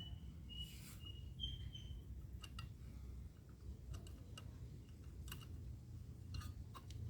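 Faint, steady low rumble of an excavator's engine, with a series of short high chirps in the first two seconds and scattered sharp clicks.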